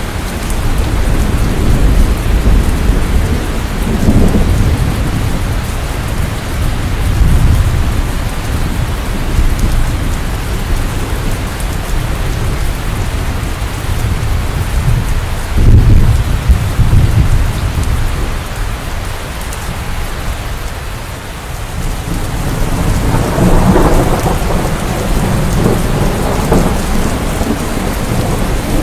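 Steady rain with thunder rumbling underneath, swelling and fading several times; the loudest roll starts suddenly about halfway through.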